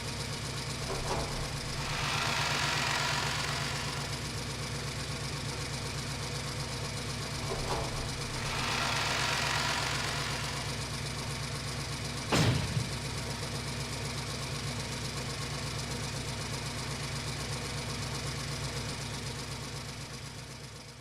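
A small engine or motor running steadily with a fast, even pulse. There are two slow swells of hiss, and a single sharp knock about twelve seconds in.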